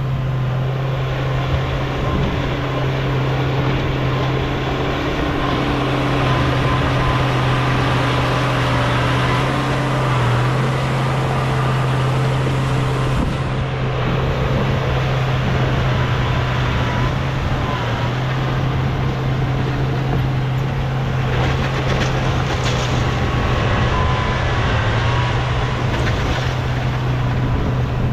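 Bulldozer's diesel engine running steadily at working speed with a deep hum, and a brief rattle of metal about three-quarters of the way through.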